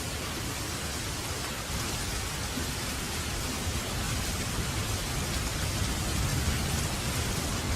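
Steady rain hissing, with a low rumble swelling in the second half that sounds like distant thunder.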